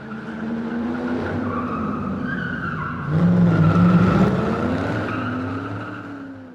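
A car with its tyres squealing over a running engine, fading in, growing louder about three seconds in, then fading away.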